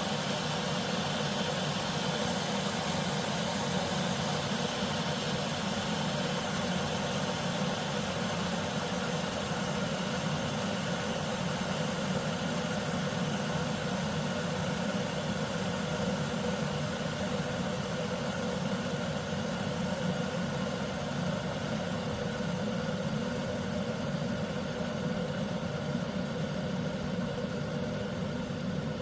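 Glass electric kettle heating water: a steady low rumble with hiss.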